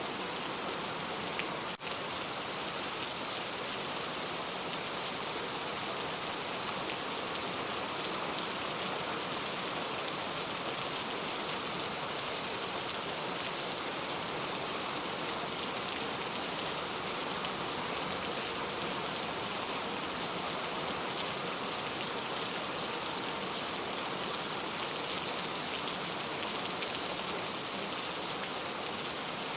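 Steady rain falling, an even, continuous hiss of drops with a brief dip about two seconds in.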